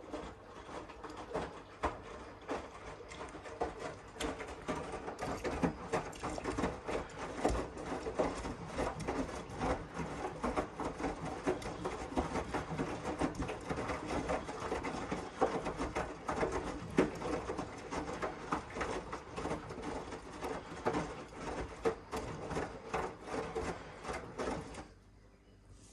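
Miele W1 front-loading washing machine running, a steady hum under many irregular small knocks and rubbing sounds; it stops near the end.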